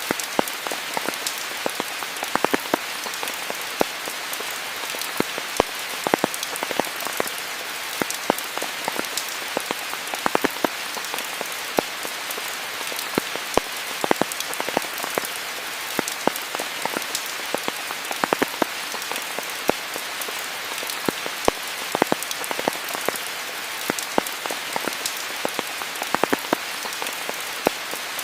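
Steady rain falling, a constant hiss with many close, sharp drops pattering irregularly on nearby surfaces.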